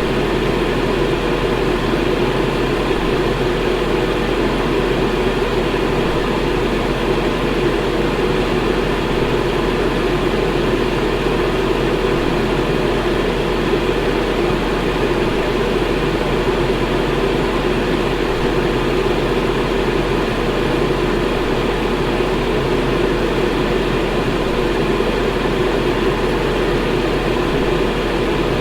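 Electric fan running steadily: a constant, even whooshing hum with no changes.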